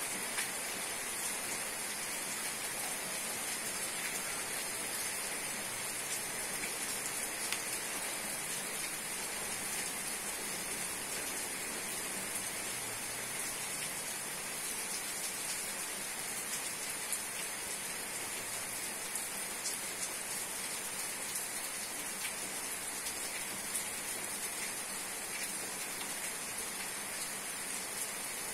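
Steady morning rain falling, an even hiss with many small drop ticks scattered through it.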